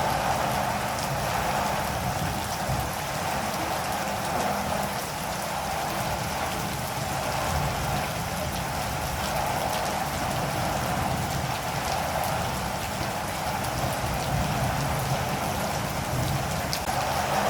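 Steady rain falling, even and unbroken, with a low rumble underneath and a few separate drop ticks.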